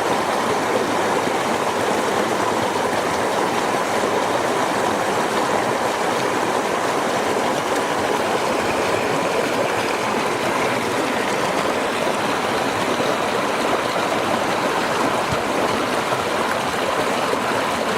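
River water flowing over stones in a steady, unbroken rush.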